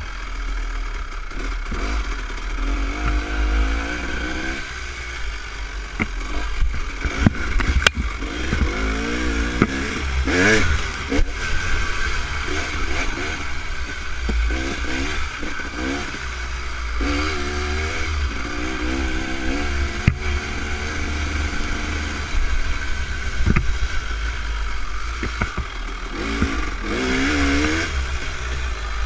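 Dirt bike engine on a trail ride, its pitch rising and falling again and again as the throttle is opened and closed. A heavy low rumble runs underneath, with a few sharp knocks.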